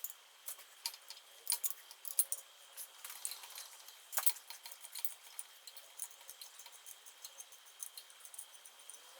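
Light metallic clinks and clicks of hand tools against engine parts, irregular, with a few sharper ones around one and a half, two and four seconds in.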